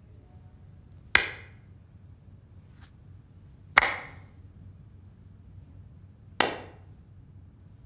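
Three sharp, echoing bangs at a slow, even pace, one every two and a half seconds or so, in a large hard-walled space.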